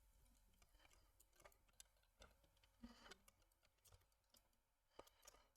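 Near silence with a scattering of faint, short clicks and taps as small model-kit parts are handled and fitted together, the clearest a few around the middle and one about five seconds in.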